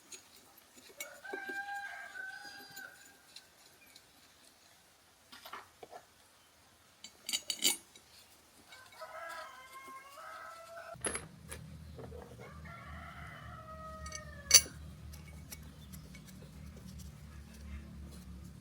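A rooster crowing three times, each call ending in a falling tail, among light metallic clinks of tools. A low steady hum comes in a little past halfway.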